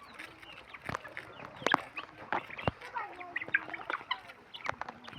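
Guinea fowl making short clucking calls while feeding, mixed with many sharp clicks and taps.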